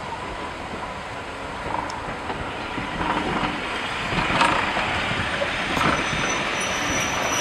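Heritage railway passenger coaches rolling past along a platform, their wheels running on the rails with a steady rumble that grows louder about three seconds in. A thin high squeal from the wheels comes in near the end.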